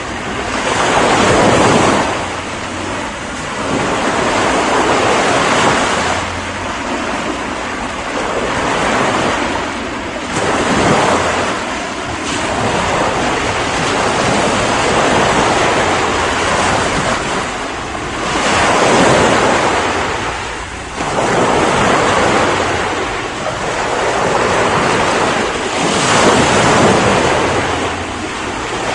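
Ocean surf: waves breaking and washing up, a steady rushing that swells and ebbs every few seconds.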